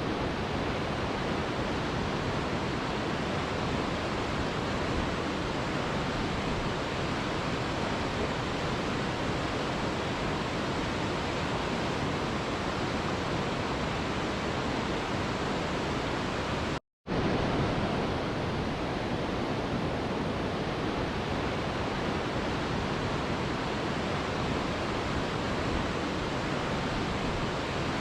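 Mountain river rushing steadily over rocks, a dense, even roar of water. The sound cuts out completely for a split second about seventeen seconds in, then resumes unchanged.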